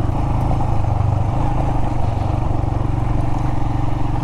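Royal Enfield Himalayan's single-cylinder engine running steadily under way at an even pace, with no marked revving.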